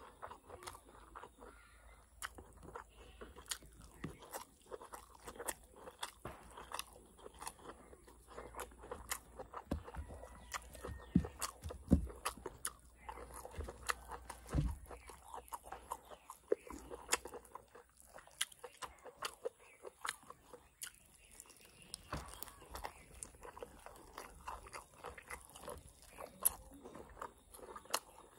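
Close-miked eating sounds of a person chewing mutton curry and rice eaten by hand, with many short clicks throughout.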